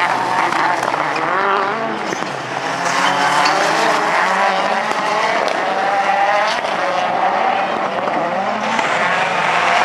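Rallycross Supercars racing, their engines revving up and dropping back again and again through gear changes, several cars heard at once.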